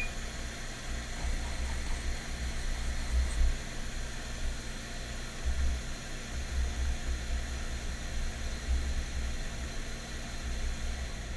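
Steady hiss and low electrical hum from running bench equipment, with irregular soft low bumps from handling at the desk.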